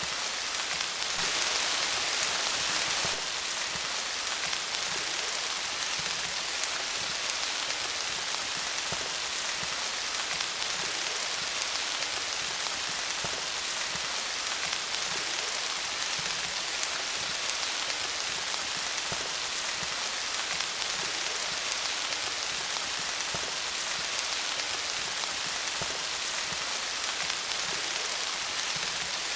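Steady rain falling on leaves, a dense even patter of drops, a little heavier for a couple of seconds near the start.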